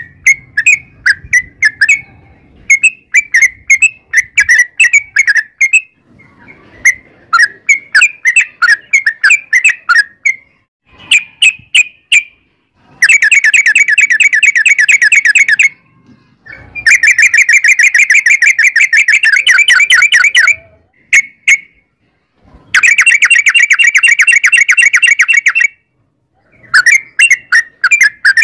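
Yellow-vented bulbul (trucukan) singing loudly in bubbly, whistled chirp phrases. In the middle come three long, very fast rattling trills of about three seconds each, the 'ropel' runs. Then the chirping phrases resume near the end.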